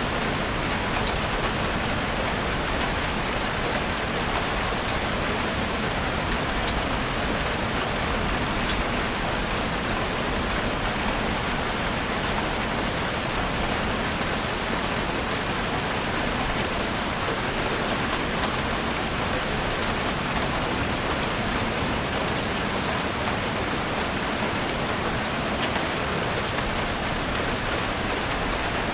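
Heavy rain falling steadily on a roof, a dense even hiss with fine drop ticks throughout.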